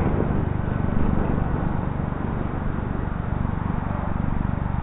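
Steady drone of an RC model warbird's electric motor and propeller in flight, mixed with wind buffeting the microphone.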